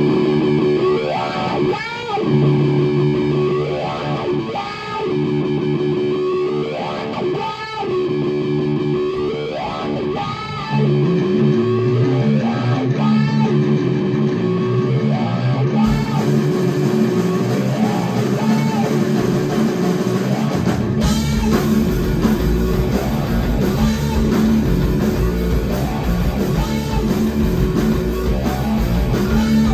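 Live rock band playing an instrumental intro: a repeating electric guitar riff with bass, growing fuller as the rest of the band comes in about two-thirds of the way through.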